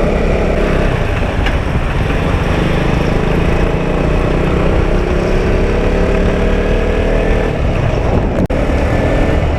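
Motorcycle engine running while riding, over a steady low rumble; the engine pitch climbs slowly through the middle. The sound drops out for an instant near the end.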